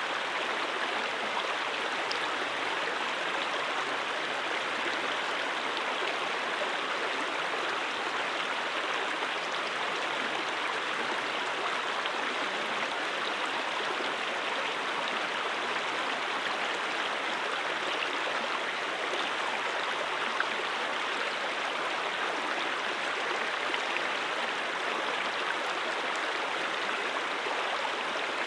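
A stream (valley brook) flowing over rocks: a steady, even rush of water.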